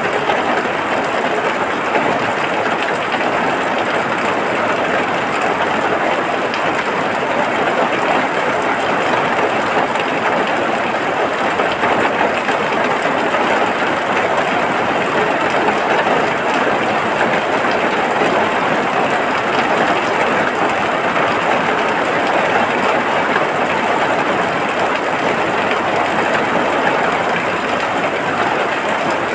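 Steady heavy rain: an even, unbroken hiss that holds the same level throughout.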